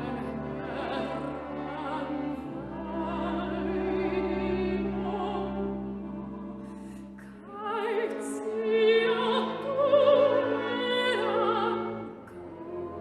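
Operatic singing with vibrato over classical accompaniment with sustained low notes. The voice swells to its loudest in the second half, then falls back near the end.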